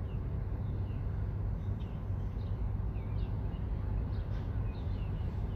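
Small birds chirping, a string of short falling notes, over a steady low rumble.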